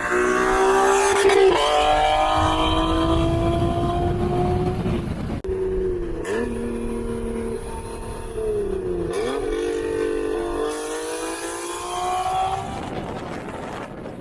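Honda NSX NA2's 3.2-litre V6 with a Pride V2 exhaust and high-flow catalytic converters, accelerating hard: the exhaust note climbs in pitch through the revs, falls back at gear changes and climbs again, in several runs, then fades near the end.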